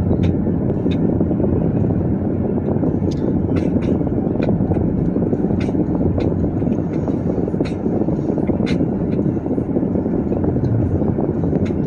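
Car driving through a snowstorm: a steady low rumble of road and wind noise, with scattered light ticks throughout.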